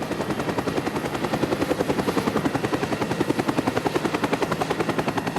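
A rapid, even, chopping mechanical sound effect, pulsing about a dozen times a second.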